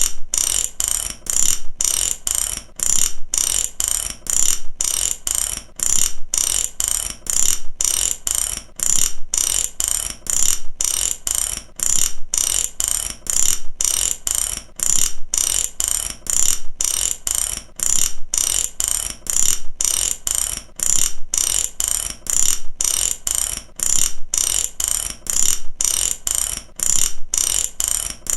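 Mechanic's ratchet wrench clicking in repeated strokes: fast runs of pawl clicks with brief pauses between them, at an even rhythm.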